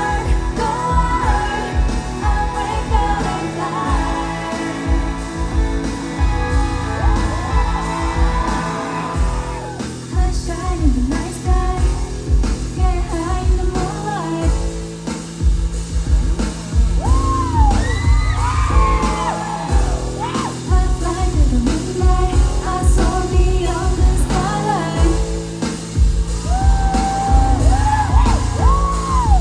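Loud live concert sound of a K-pop song: a heavy, steady bass-drum beat with a woman's voice singing melody lines over it, heard in a large hall, with yells from the crowd.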